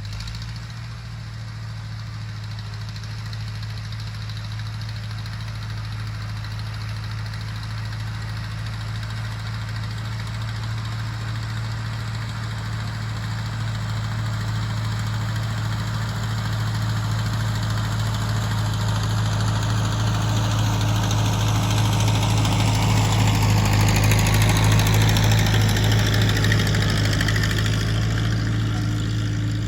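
Tractor engine running at a steady pitch, growing gradually louder as it draws closer, loudest near the end before easing slightly.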